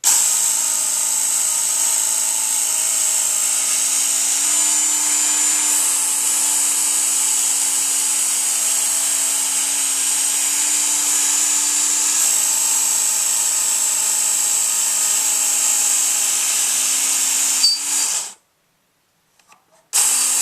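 Work Sharp electric belt knife sharpener running steadily on its red 220-grit belt as a knife is run through it, with a high squeak from one of its belt wheels. The motor cuts off suddenly about 18 seconds in and starts again near the end.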